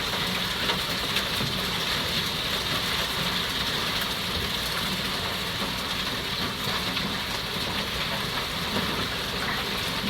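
Hail and heavy rain pelting down steadily, a dense mass of small impacts.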